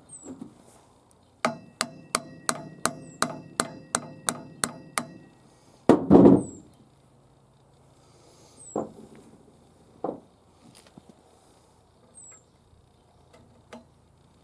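A hammer striking metal about eleven times in a quick run, roughly three blows a second, each blow ringing. This is followed by a heavier, longer knock, the loudest sound, and two more single knocks later on. The hammering is typical of driving a U-joint's bearing caps in or out of a driveshaft yoke.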